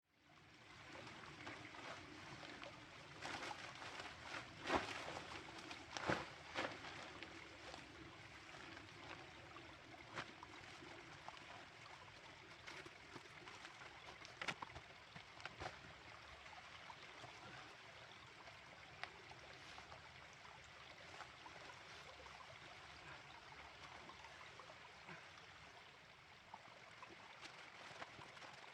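Small mountain stream running steadily over stones, with a few sharp knocks and clicks in the first several seconds.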